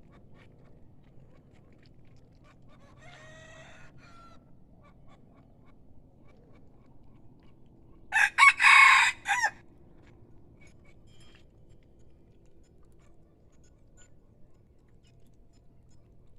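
A rooster crowing once loudly, a single call of about a second and a half starting about eight seconds in, with a fainter crow about three seconds in.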